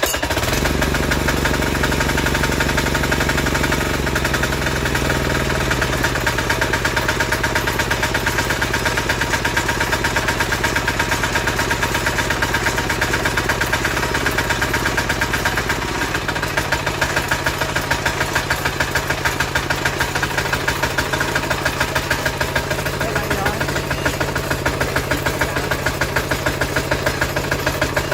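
The 173DJ plow's engine running with a rapid, even pulsing beat. Its speed drops a little about four seconds in, then it runs on steadily.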